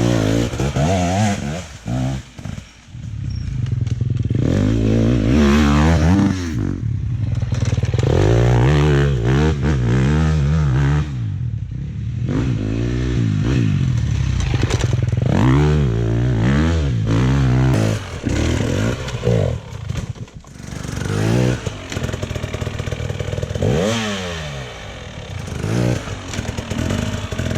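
Dirt bike engine revving up and down over and over as it is ridden along a trail, the pitch climbing under throttle and dropping off between bursts, with clattering from the bike over rough ground.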